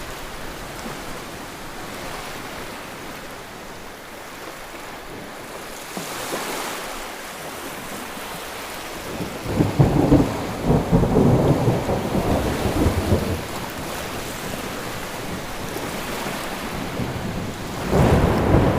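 Steady rain falling, with loud low rumbling for about four seconds starting roughly ten seconds in, and again near the end.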